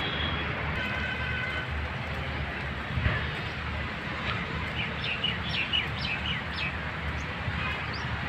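Birds chirping: a few short high calls at the start, then a quick cluster of chirps a little past halfway, over a steady low background rumble.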